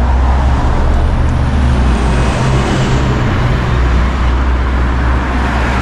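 Road traffic: a steady rumble of motor vehicles, with a passing vehicle swelling and fading about two to three seconds in.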